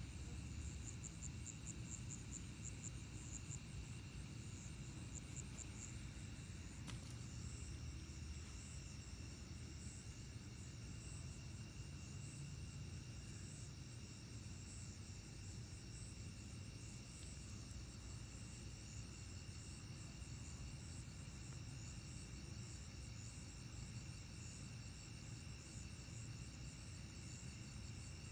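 Night-time insect chorus of crickets: several steady high trills at different pitches, overlapping, with a faint low rumble underneath.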